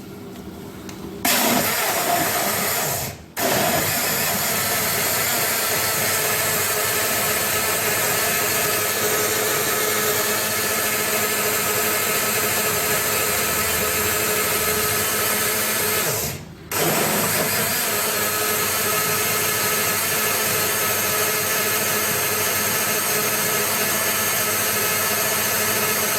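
Bullet-style personal blender running at full speed, blending soaked oats, banana and peanut punch into a drink. It starts about a second in and cuts out briefly twice, near the start and about two-thirds of the way through, before running on steadily.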